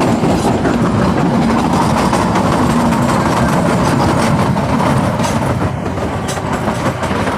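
Moving train heard from on board: a steady loud rumble of the wheels running on the rails, with a few faint clicks near the end.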